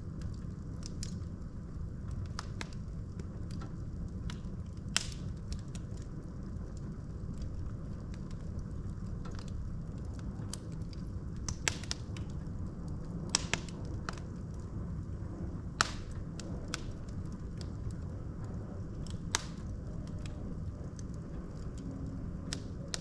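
Wood logs burning in a fireplace: a steady low rumble of flames with sharp crackles and pops scattered throughout, a handful of them louder than the rest.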